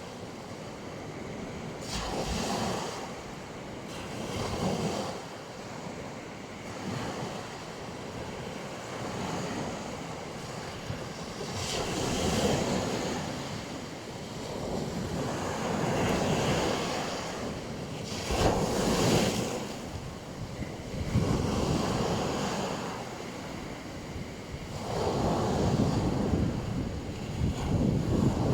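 Black Sea surf washing onto a beach, one wave after another rising and falling every few seconds.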